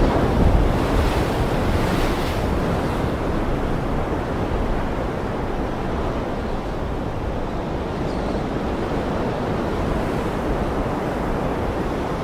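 Ocean surf washing in a steady, low-heavy rush, with a brighter wash about one to three seconds in.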